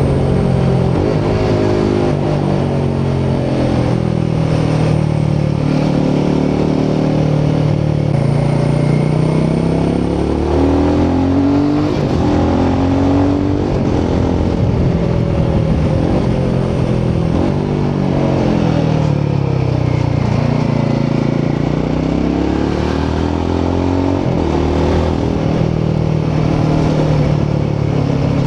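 Royal Enfield Himalayan 450's 452cc single-cylinder Sherpa engine and exhaust under way, the engine note rising and falling several times as the bike speeds up and slows.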